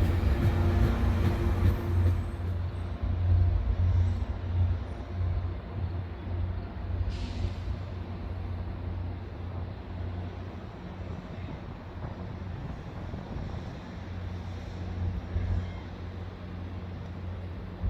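Train rumbling low and fading gradually as it moves off, with a short hiss of air, typical of an air brake, about seven seconds in.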